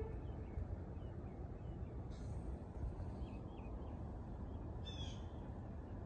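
Birds calling outside: a few faint high chirps, then a short, harsher call about five seconds in, over steady low outdoor background noise.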